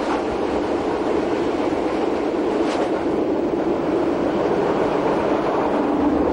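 Train running on the rails: a steady rumble of wheels on track that grows slightly louder early on, with one faint click near the middle.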